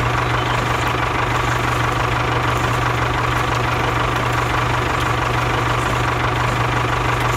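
Mini tractor engine running steadily at idle, an even low drone.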